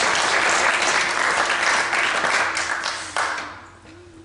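A congregation applauding. The clapping dies away about three seconds in.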